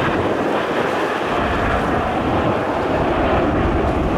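Jet noise from the Aermacchi MB-339 PAN aerobatic jets and their turbojet engines, a steady loud rush. A deep low rumble joins in about a second in.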